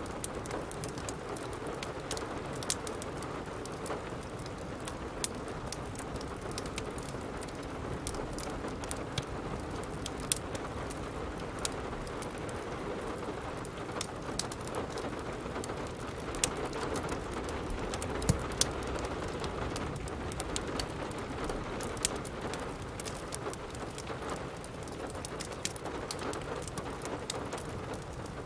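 Steady rain with a wood fire crackling: an even rain hiss under scattered sharp crackles and pops, a few of them louder.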